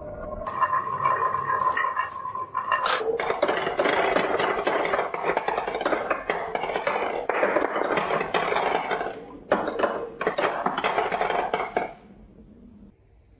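Marbles rolling on a wooden marble-run track: a steady rolling hum with a few clicks, then from about three seconds in a dense rattling clatter of many marbles. It breaks off briefly near nine seconds and stops suddenly near the end.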